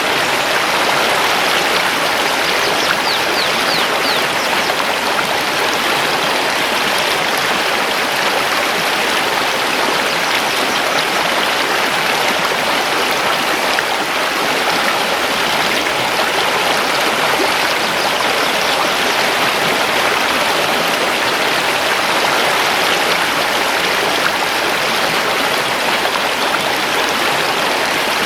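Mountain river rushing steadily over stones.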